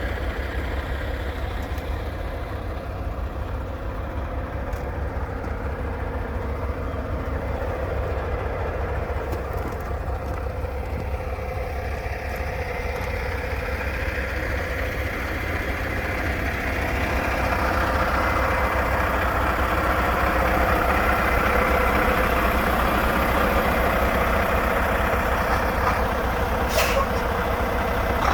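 Diesel engine of a 2016 Mack Pinnacle day cab truck running steadily, growing a little louder and brighter about two-thirds of the way through. A brief hiss comes near the end.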